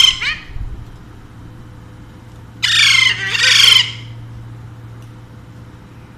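Alexandrine parakeet squawking: the loud tail of one harsh call at the start, then a double screech about two and a half seconds in.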